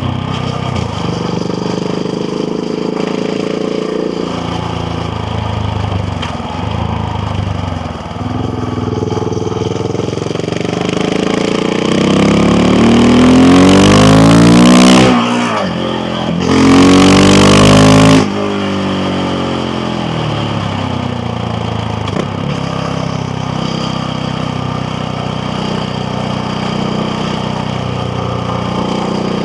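KTM Duke 690R's single-cylinder engine heard by the rider on the move. Midway the revs climb hard and loud, break off briefly for a gear change, rise again for a couple of seconds, then drop back to a steady, lower note for the rest.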